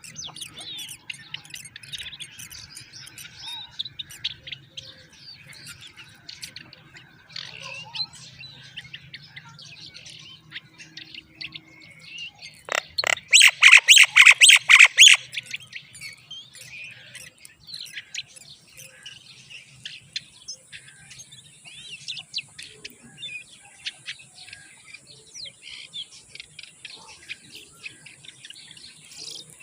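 Myna chicks chirping over and over, with a loud run of rapid calls lasting about three seconds in the middle. A steady high-pitched hiss joins after about two-thirds of the time.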